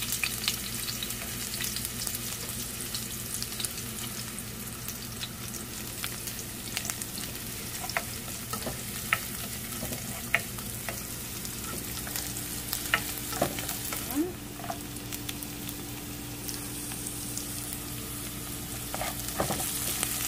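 Chopped shallots, garlic and spring onion sizzling in hot oil in a non-stick wok, being sautéed until fragrant, with occasional sharp clicks of a spatula stirring against the pan.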